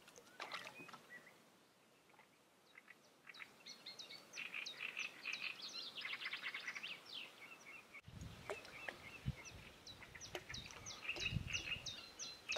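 Songbirds chirping and singing, with quick runs of short high notes over and over. A few low thuds come in the second half.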